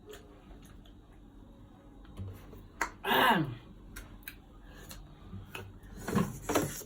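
Scattered light clicks and taps, with two short falling vocal exclamations, one about three seconds in and one near the end.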